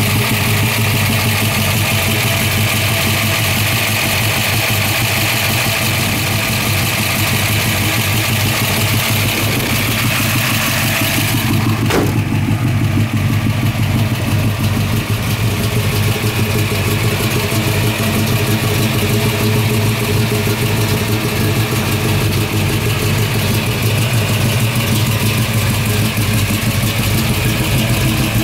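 Boss 302 small-block V8 idling steadily, with a brief click about halfway through.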